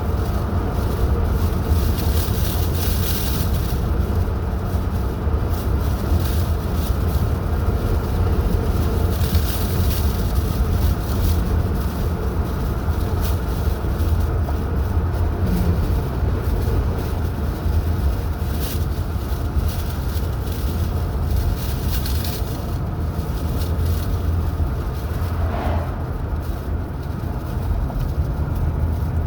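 A car driving steadily along a highway: a low, even rumble of engine and tyres on the road surface.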